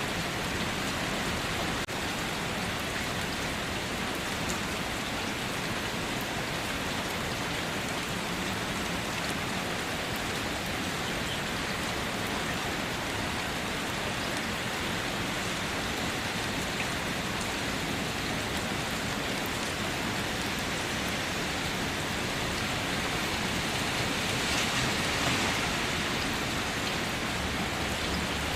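Steady rain pattering on surfaces, an even hiss of many drops with no thunder, swelling slightly near the end.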